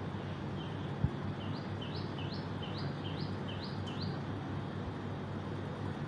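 A small bird calling a quick run of about seven short rising chirps, two or three a second, over a steady low rumble of distant traffic. A single thump about a second in is the loudest sound.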